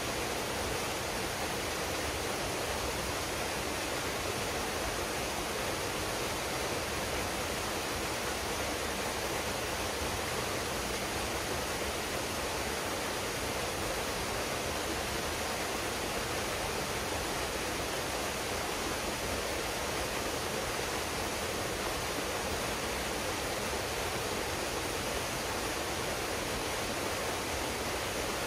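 Waterfall pouring into a pool: a steady, even rush of falling water with no breaks or changes.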